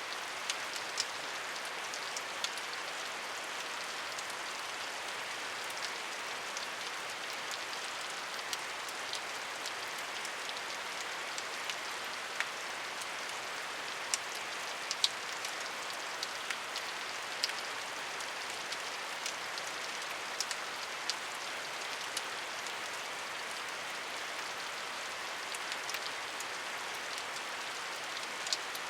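Steady rain: an even hiss of rainfall with scattered louder drops ticking sharply on a nearby surface.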